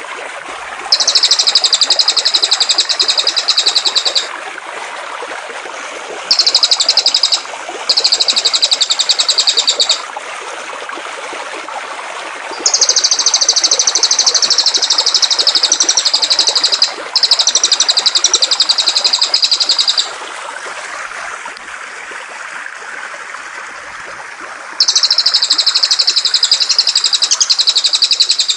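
A songbird singing a very rapid, high-pitched buzzy trill in six bouts of one to four seconds each, over the steady rush of flowing water.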